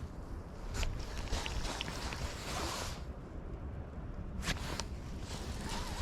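Low wind rumble on the microphone, with a few light clicks and a brief rustle about two to three seconds in, the kind of handling noise an angler makes working a reel and rod.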